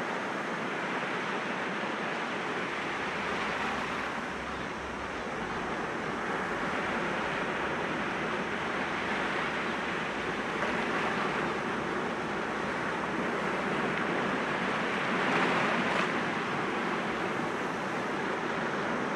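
Sea waves breaking gently against rocks, a continuous wash of surf that swells and ebbs every few seconds, with its loudest surge near the end.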